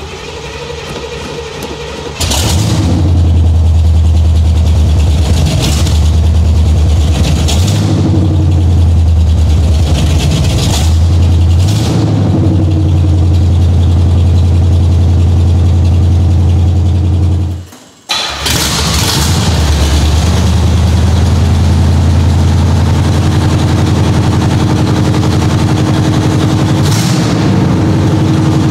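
Chevrolet 305 H.O. small-block V8, newly fitted with long-tube headers, being test-fired. It starts right at the beginning, gets much louder about two seconds in, and runs loud and steady with a few brief changes in revs. There is a short break about two-thirds of the way through, after which it runs on.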